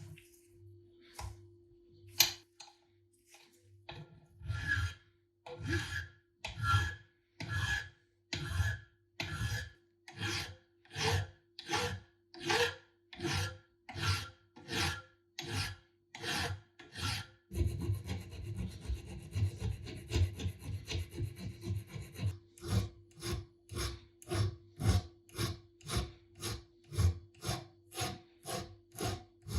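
Rhythmic back-and-forth rasping strokes of a hand abrasive being worked on an old hammer, about one and a half strokes a second. In the middle there are a few seconds of continuous fast scraping, and after that the strokes come quicker, about two a second.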